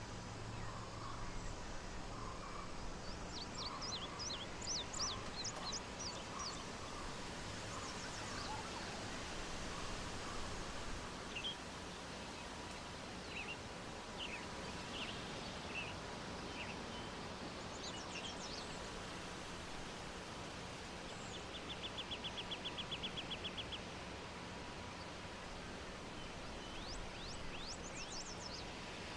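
Small birds calling over steady outdoor background noise: scattered high whistles and short chirps, and a rapid trill lasting about two seconds a little past the middle.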